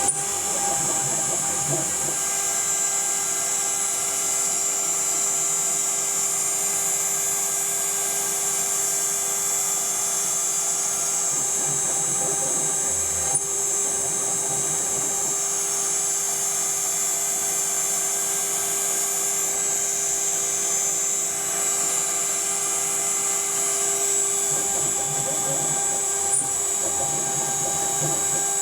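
CNC router running steadily as its bit carves a relief in one finishing pass without a prior roughing pass, with the spindle's high whine and the stepper motors' steady tones underneath. Two small ticks, about halfway and near the end.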